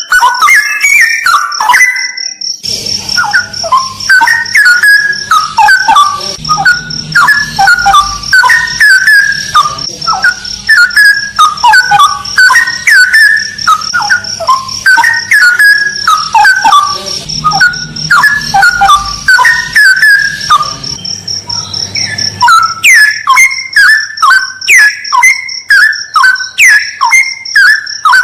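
Straw-headed bulbul (cucak rawa) singing loud whistled phrases that sweep up and down, repeated over and over, with a brief break about two seconds in. A steady high-pitched ringing tone runs underneath.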